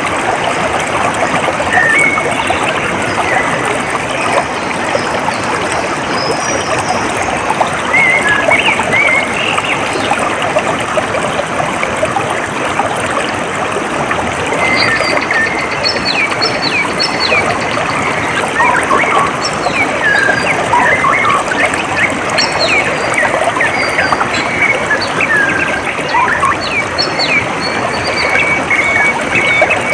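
Water trickling and flowing steadily, with small birds chirping over it in short, quick calls that come more often in the second half.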